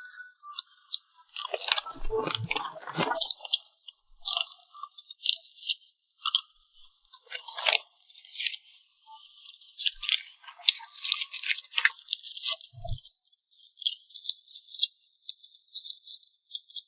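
Close-miked cake-eating sounds: an irregular run of sharp, crisp crackling clicks and crunches, with a fuller crunching burst about two seconds in and a brief soft thud late on.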